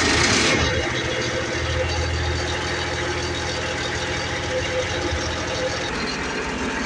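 Enclosed lifeboat's diesel engine running just after starting on glow-plug preheat: a harsher, louder noise in the first half second, then it settles into a steady idle.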